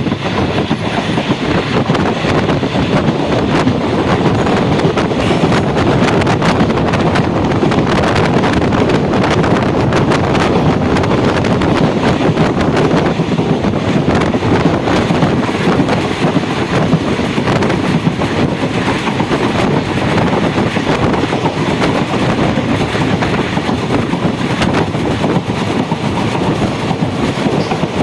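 Train running along the track: a steady loud rumble with the clickety-clack of wheels over rail joints.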